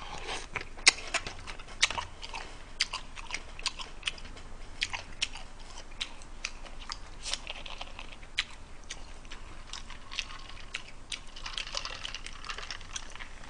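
Close-miked chewing and biting of pizza, with many small wet clicks and crunches. Near the end, cola fizzes as it is poured from a plastic bottle into a glass.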